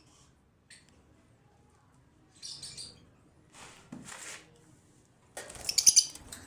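Lovebirds chirping in short bursts of high, rapid notes, loudest near the end, with a couple of brief rustling bursts in the middle.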